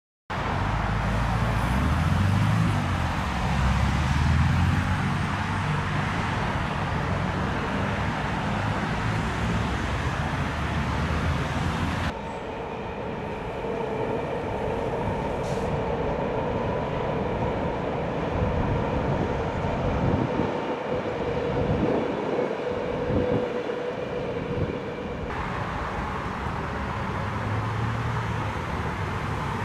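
Electric passenger trains running across a railway bridge, a steady rumble of wheels on the rails. The sound changes abruptly about twelve seconds in, where a steady hum comes in over the rumble, and again near twenty-five seconds.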